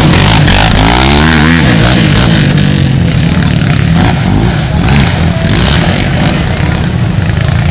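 Racing ATV engines revving hard as the quads accelerate, loud and continuous, with an engine's pitch climbing about a second in.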